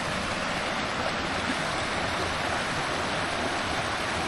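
Flash-flood water rushing steadily through a wadi, a constant, even roar of moving water.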